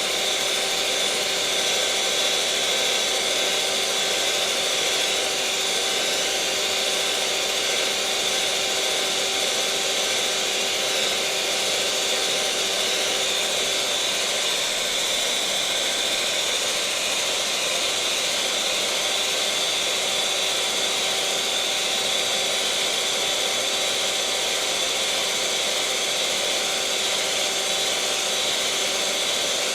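Electric mixer motor running steadily: a constant whirring hiss with a few steady whining tones over it, the lowest of which fades out about halfway through.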